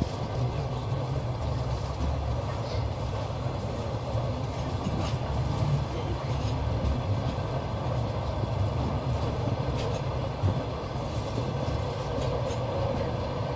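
Passenger train running along the track, heard from inside a carriage: a steady rumble of wheels on rails, with a few faint knocks from the wheels.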